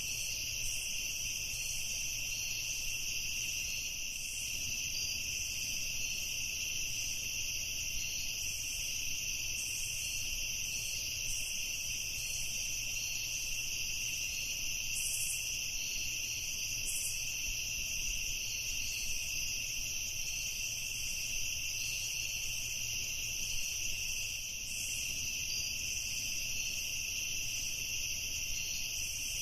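Evening insect chorus: crickets trilling steadily and densely at several high pitches at once, the highest layer pulsing quickly.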